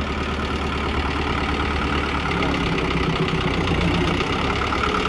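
Kubota M6040SU tractor's diesel engine running steadily, its pitch wavering slightly between about two and four seconds in.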